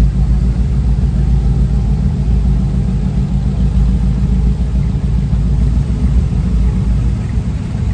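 A truck engine running with a low, steady rumble.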